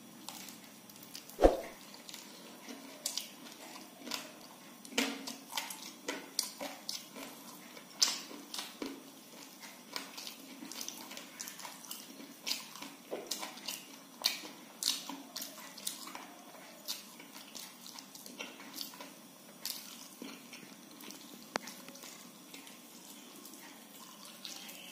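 Close-up wet mouth sounds of a person eating by hand: irregular chewing, smacking and squishing clicks, with fingers working soft khichdi on a banana leaf. One louder thump about a second and a half in.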